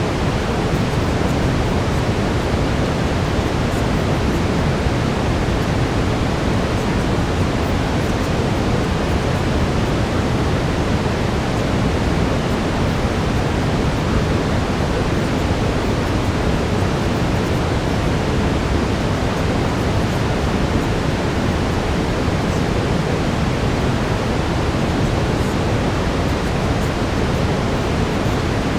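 Steady brown noise: an even, unbroken rushing hiss, heaviest in the low end and thinning toward the top.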